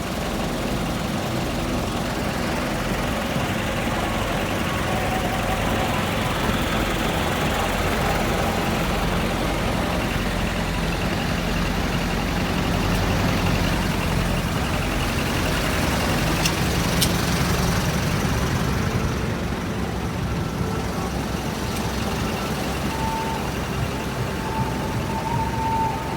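Truck engines idling steadily.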